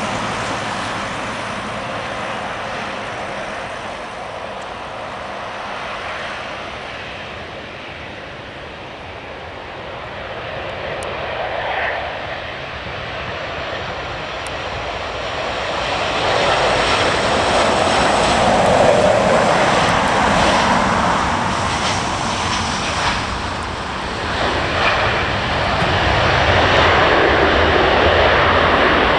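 Airliner engines heard as a steady rushing noise that builds from about a third of the way in and stays loud through the second half, as an aircraft moves on or near the runway.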